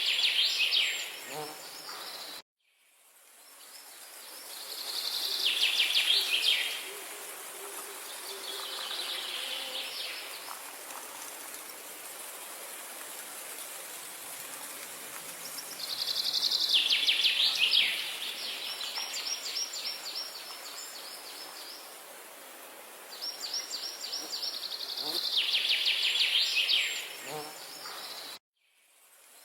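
A songbird singing loud, rapid trilled phrases every few seconds over a steady background hiss. The sound cuts out abruptly to silence twice, once a couple of seconds in and again near the end, at what look like edit seams.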